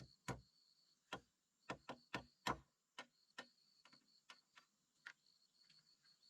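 A series of about a dozen sharp, irregular knocks or taps on a hard object, the loudest clustered in the first half. Under them, a faint steady high insect trill.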